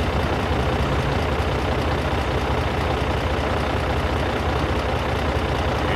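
Tractor engine running steadily at idle, an even, rapid low chugging.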